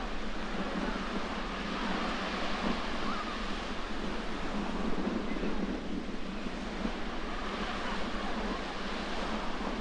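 Sea surf washing against the shore under a strong wind, with gusts buffeting the microphone; a steady rushing noise throughout.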